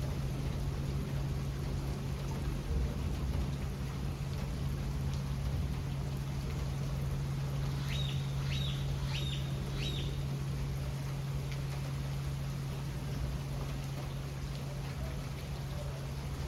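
Steady rain falling, over a constant low hum. About halfway through come four quick, short high chirps.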